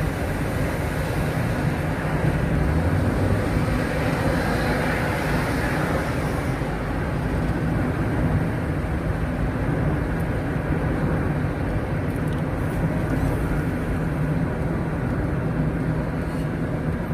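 A car on the move: a steady engine hum and road noise, with a louder rush of hiss for the first few seconds.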